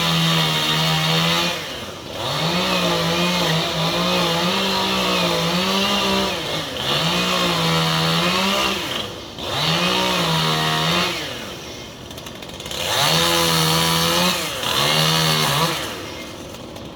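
Two-stroke chainsaw run at full throttle in about six bursts, its pitch sagging and recovering as it cuts into the tree, dropping back toward idle between bursts.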